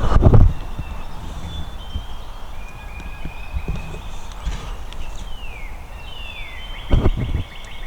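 Close, heavy footfalls on the woodland floor in two bursts, one right at the start and one about seven seconds in, with songbirds singing between them, including high short notes and two descending whistles.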